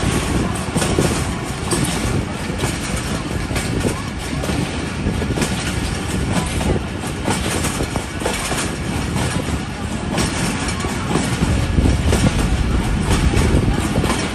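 Passenger train running along the track: a steady rumble of wheels on rail and carriage noise, the low rumble growing heavier and a little louder about three-quarters of the way through.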